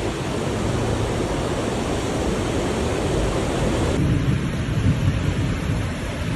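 Heavy rain and rushing floodwater making a steady noise, changing abruptly about four seconds in.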